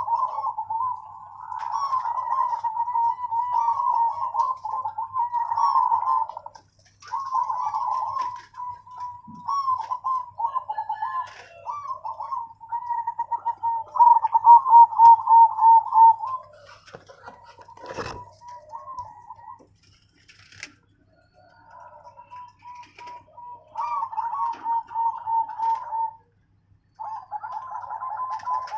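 Zebra dove (perkutut) cooing: phrases of quick, rolling coo notes that repeat with short pauses between them. A single sharp click sounds about two-thirds of the way in.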